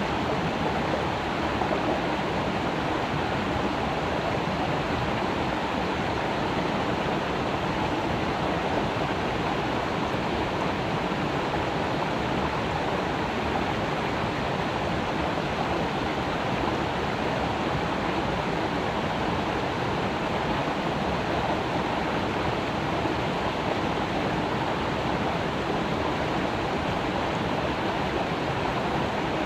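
Creek water flowing and splashing over rocks, a steady rushing burble.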